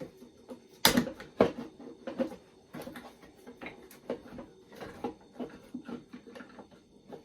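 Wooden knocks and clicks from half-inch plywood box panels and squeeze clamps being handled while the box is clamped and squared up. Two sharp knocks about a second in, then lighter, irregular taps and clicks.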